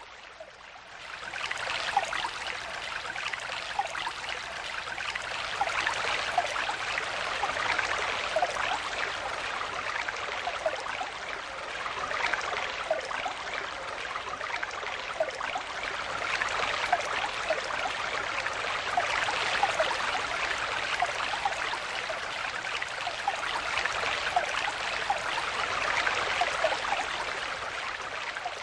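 Stream water flowing steadily, a continuous rushing with small bubbling notes scattered through it; the sound is softer for about the first second, then swells up and holds.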